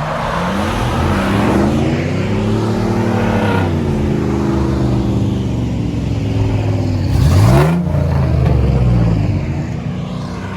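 Vehicle engine revving hard, its pitch climbing and falling several times, with a sharp, loud surge about seven seconds in, accompanied by a brief rush of noise.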